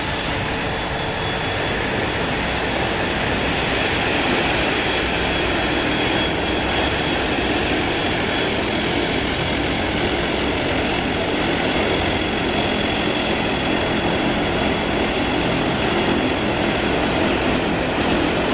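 Jet engines of a Boeing 767-300ER airliner running steadily, a broad rush with a thin high whine on top, growing slightly louder a few seconds in.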